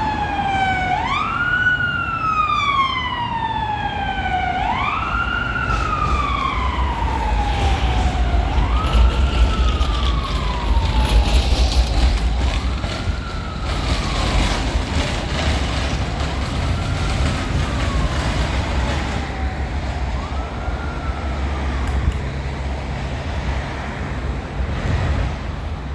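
An emergency vehicle's siren wailing, each cycle rising quickly and then falling slowly, repeating about every four seconds. It grows fainter with each cycle as the vehicle moves away and is gone by about three-quarters of the way through, over a steady low traffic rumble.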